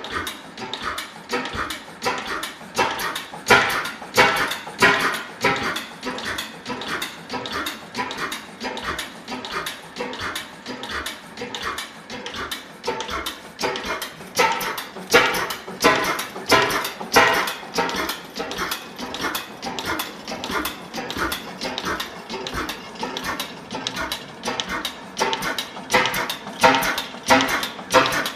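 6 hp National oil engine running with a steady, even beat of about three strokes a second, some strokes louder than others.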